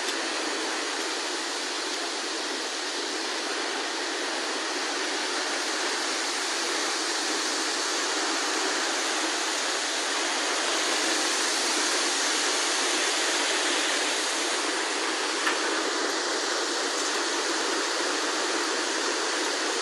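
Rushing floodwater: a steady, unbroken wash of water noise that swells slightly partway through.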